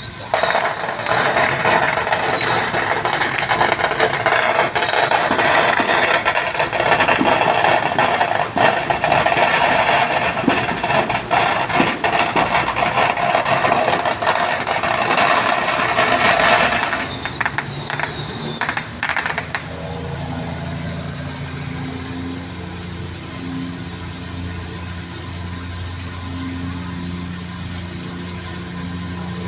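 Squid fishing boat's engine: loud rattling, clattering mechanical noise for most of the first half, which dies away near the middle and gives way to the engine's steady low running hum.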